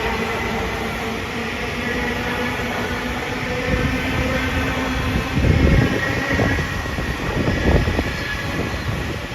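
LIRR M9 electric multiple-unit train running through the station, with a steady rumble and held electric whine tones, swelling into louder low rumbles about five and a half seconds in and again near eight seconds.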